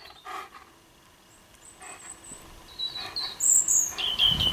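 Birds chirping: a few short, high-pitched chirps in the second half, with near quiet before them.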